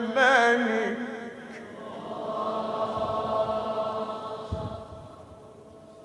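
Male Qur'an reciter chanting the word "al-Malik" in melodic tajwid style, with a wavering melismatic ornament at first, then a long held note that fades out near the end.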